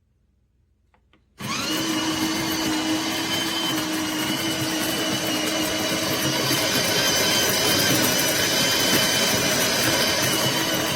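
Electric coffee grinder motor switching on abruptly and running steadily at full speed, grinding coffee beans, with a steady whine over the grinding noise. A couple of faint clicks come just before it starts.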